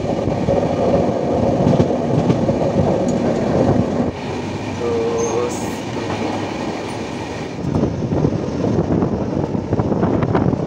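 Passenger train running along the track, heard from an open coach window: a steady rumble and rattle of wheels on rails. It eases off for a few seconds in the middle, and a run of sharp clicks comes near the end.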